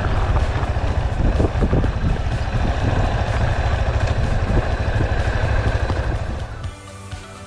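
Yamaha Serow 250's air-cooled single-cylinder engine running steadily with a strong low hum and a rushing noise over it. It drops away near the end as background music comes in.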